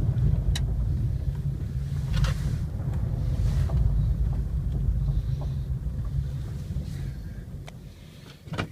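2001 Chevrolet Impala being driven: a steady low rumble of engine and road noise with wind on the microphone, easing off as the car slows toward the end, with a few light clicks and a sharper click near the end.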